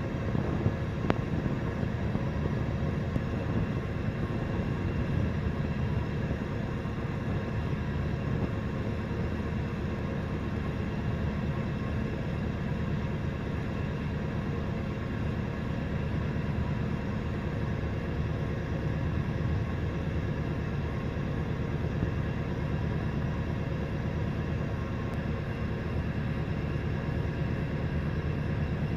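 Steady low vehicle rumble that runs on unchanged, with no distinct events standing out.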